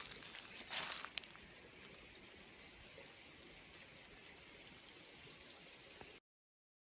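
Faint steady outdoor hiss with two brief rustling noises in the first second and a few light clicks; the sound cuts off to silence about six seconds in.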